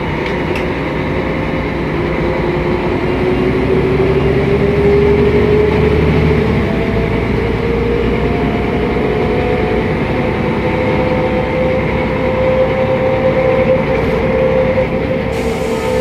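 Mercedes-Benz O500MA articulated city bus under way: steady diesel and drivetrain noise with a whine that climbs in pitch over the first several seconds as the bus gathers speed, then holds level.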